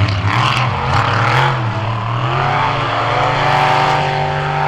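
Off-road vehicle engine revving up and down under load, then holding a steady high rev from about halfway through.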